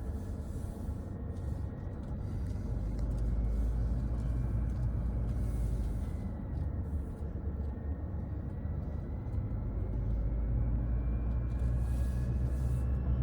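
A car's engine and tyres making a steady low rumble while driving down a mountain road, with a faint whine that slowly drifts up and down in pitch.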